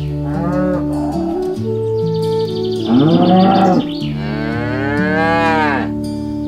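Cattle mooing three times, each call rising and falling in pitch: a short moo, a louder one about three seconds in, then a long drawn-out moo of nearly two seconds. Soft background music plays underneath.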